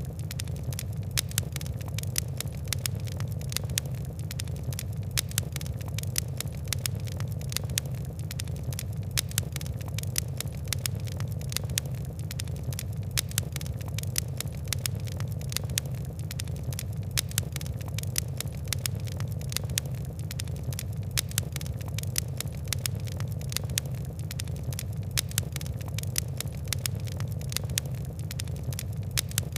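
Fire crackling, with dense sharp ticks and pops over a steady low rumble of burning.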